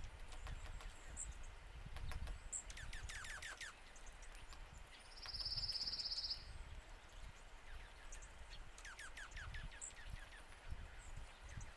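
Small songbirds calling: scattered high chips, quick clusters of down-slurred notes, and one loud, even trill lasting about a second near the middle, over a low rumble.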